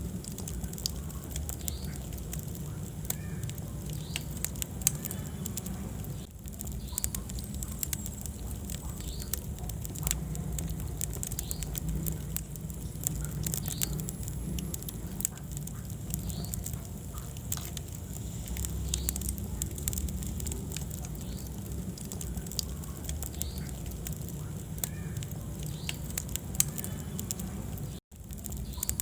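Wood fire burning in a fireplace, crackling with frequent sharp pops over a low, steady rumble of the flames. The sound cuts out for an instant near the end.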